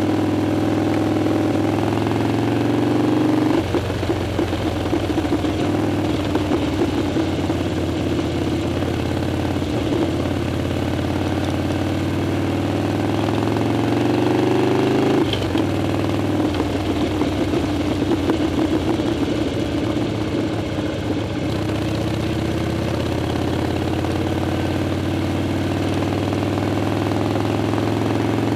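Harley-Davidson Dyna motorcycle's V-twin engine running under way. Its pitch climbs steadily as it accelerates, then drops suddenly about halfway through, as at an upshift, and settles into a steady run.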